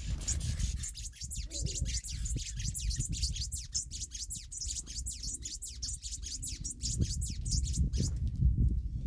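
A bird calling a long, rapid series of sharp, high notes, each sweeping quickly downward, about four a second, stopping near the end. A low rumble runs underneath.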